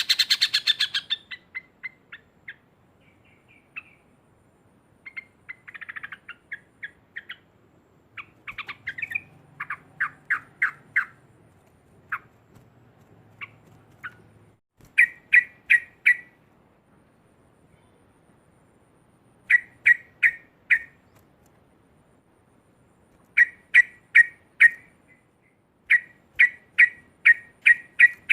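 Yellow-vented bulbul (trucukan) giving its loud chattering 'ngekek' call: runs of several quick, sharp notes, repeated every few seconds with short pauses between.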